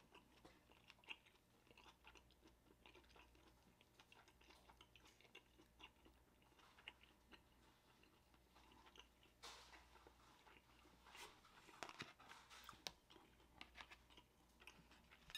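Near silence with faint scattered clicks of quiet chewing, then light taps and clicks of a clear plastic dumpling tray and a metal spoon being handled, busier and a little louder in the last few seconds.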